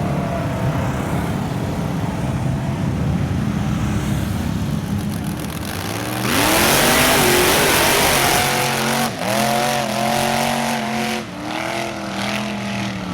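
Off-road vehicle's engine running in the mud, then revved hard about six seconds in with a loud rushing noise over it, followed by repeated rises and drops in engine speed.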